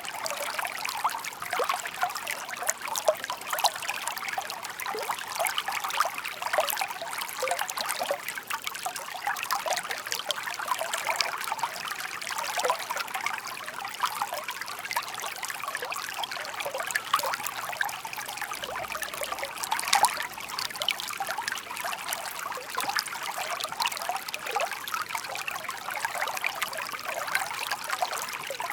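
Shallow stream babbling steadily over stones, a dense patter of small splashes and trickles with no deep rush.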